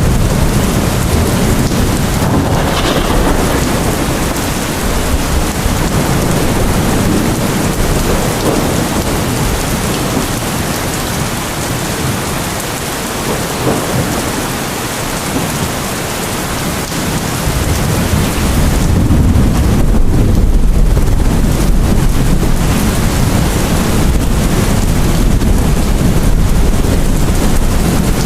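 Heavy rain falling steadily, with a low rumble of thunder that swells about two-thirds of the way in and keeps rolling.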